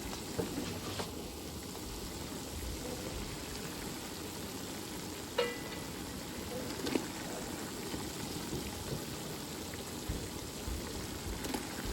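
Food sizzling steadily in a frying pan, with a few light clicks and knocks.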